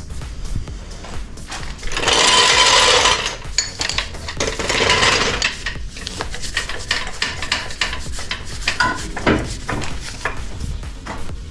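Workshop handling noises: tools and engine parts knocking and clicking, with two loud rasping scrapes of about a second each, one about two seconds in and one about four and a half seconds in.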